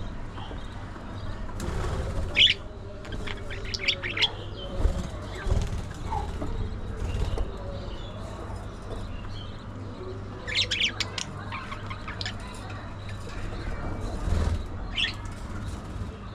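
Budgerigars chirping in short scattered bursts of high, quick notes, over a steady low hum.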